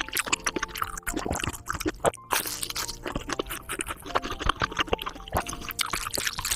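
ASMR mukbang eating sounds: wet chewing and squishing of a mouthful of jjajangmyeon (black-bean-sauce noodles), with many quick small mouth clicks, over soft background music with held notes.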